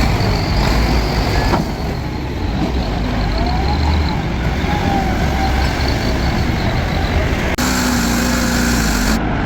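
Heavy diesel engine running steadily with a deep rumble. The sound changes abruptly about three-quarters of the way through, after which a wavering hum is heard over the engine.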